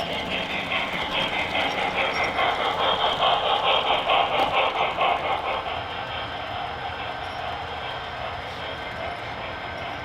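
HO scale model train of tank cars rolling along the track, its wheels making a rapid clicking rattle. It is louder for about the first six seconds, then quieter and steady.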